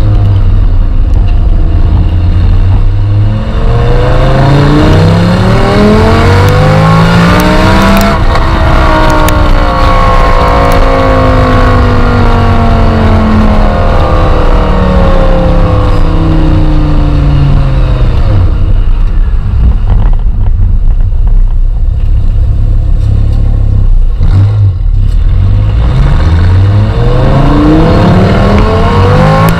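Audi R8 V10 engine through an ABT exhaust, revving: the pitch climbs for about five seconds, winds down slowly over the next ten, stays low with a few short blips, then climbs again near the end.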